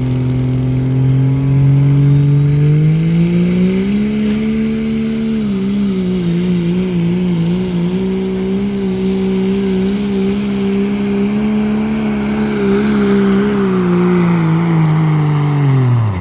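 Turbocharged diesel pickup engine at full throttle pulling the sled: the revs climb over a couple of seconds, then hold high with a wavering pitch as it labours down the track. Near the end the revs sag before the sound cuts off suddenly.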